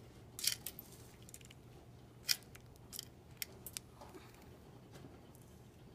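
A pet bird eating, its beak making sharp, irregular crunching clicks at its food, the loudest about half a second and two seconds in, with a few smaller ones around three seconds in.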